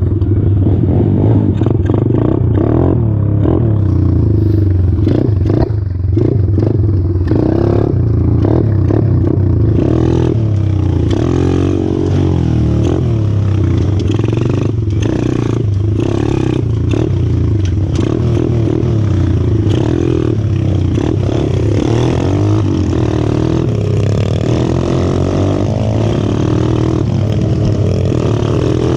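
125cc four-stroke pit bike engine running while riding a rough trail, its pitch rising and falling with the throttle. Frequent rattles and knocks sound over the engine.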